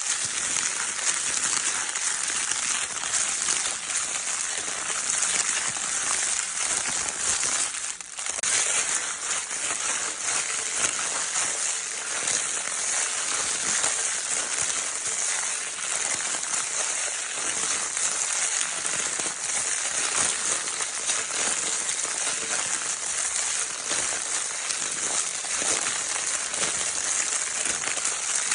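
Continuous crinkling and rustling of a baby's crinkle paper toy being handled. It makes a dense, steady crackle with a brief lull about eight seconds in.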